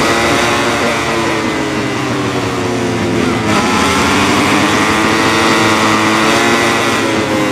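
MotoGP race motorcycle engines at full racing revs, the engine note rising around the middle and falling again near the end.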